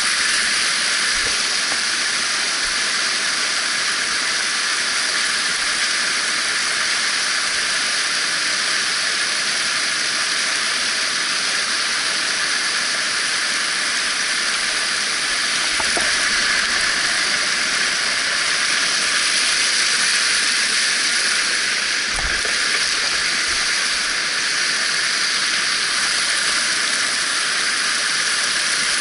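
Mountain stream water rushing over rocks, a steady, even hiss.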